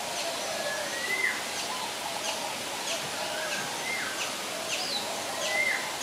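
Several birds calling over a steady background hiss: short high chirps that slide downward, repeated about twice a second, and a few rising whistles that break off sharply.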